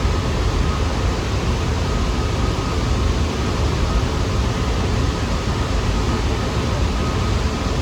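New York City subway train running along the platform: a steady, loud rumble and rush of wheel and track noise with a faint steady whine above it.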